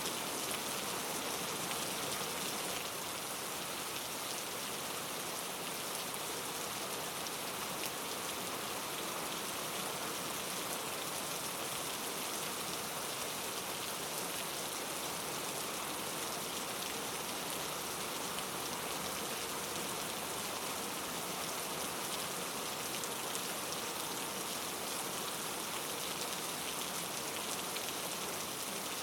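Steady rain falling on a surface, an even hiss with the fine patter of individual drops.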